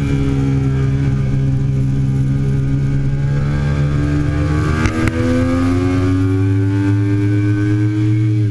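2008 Triumph Daytona 675's three-cylinder engine running under load on track, heard from on the bike. Its pitch sinks slowly, then about five seconds in there is a short sharp break and the note steps up to a higher pitch and climbs gently, as at a downshift.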